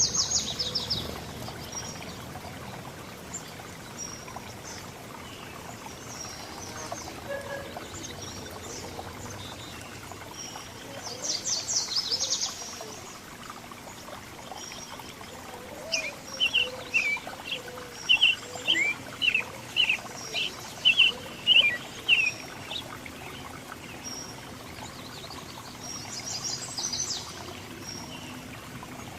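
Several small songbirds calling over a steady background hiss. There are quick, high chittering trills near the start, around the middle and again near the end, and a run of about a dozen short, sharp chirps repeated roughly once a second in the second half.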